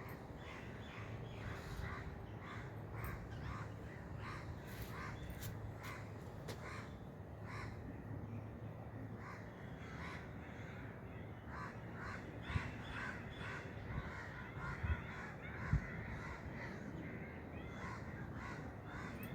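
Birds calling over and over, short calls about twice a second throughout, with a few short knocks near the end.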